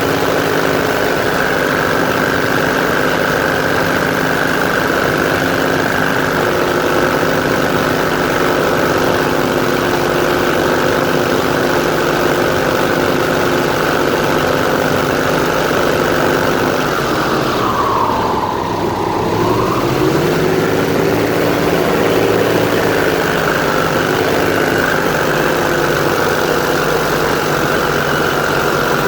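Airboat engine and propeller running steadily at speed; about two-thirds of the way through the revs drop briefly and then climb back up.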